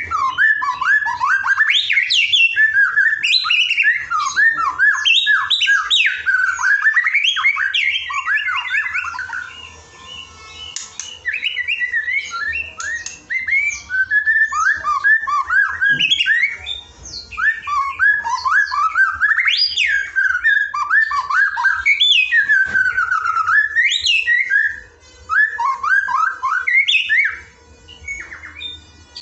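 Songbird song in the fast 'nembak' style of canaries and sogons: rapid runs of sharp, mostly falling whistled notes in long phrases, with short lulls about ten seconds in and near the end.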